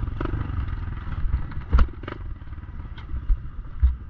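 Pit bike engine running with a steady low rumble, with a few sharp knocks and clatters over it.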